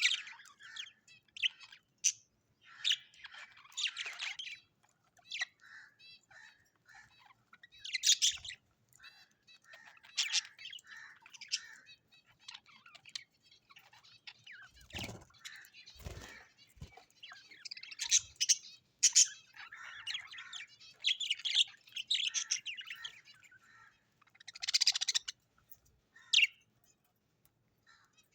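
Birds chirping and calling in quick, irregular high-pitched bursts, with two dull low thumps about halfway through.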